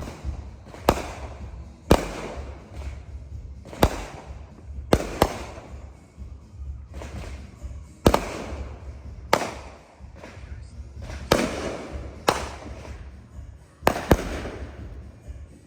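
Consumer fireworks going off: about ten sharp bangs at uneven intervals of roughly one to two seconds, each followed by a brief fading noise.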